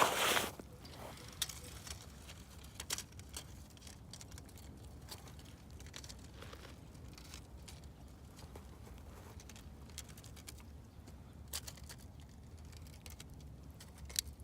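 A short crunching scrape at the start, then scattered faint clicks and scrapes as a tape measure is worked down a freshly drilled hole in lake ice to measure its thickness.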